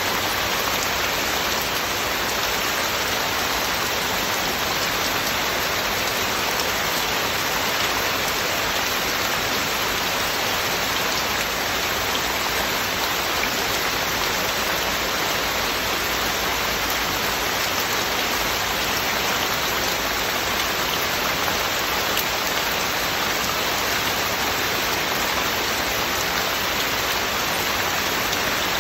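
Heavy, steady rain falling, a dense even hiss of drops on surfaces.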